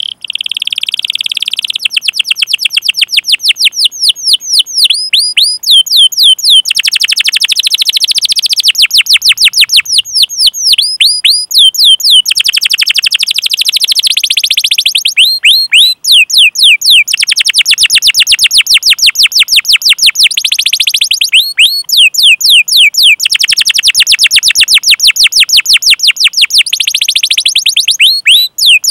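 Domestic canary singing a long, rolling run of rapid downward-sweeping 'cuit cuit' chirps, about ten a second, broken now and then by short stretches of slower chirps.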